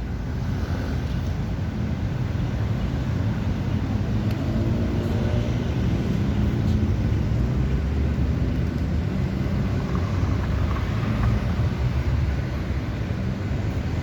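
Heavy city road traffic: a steady rumble of vehicle engines and tyre noise.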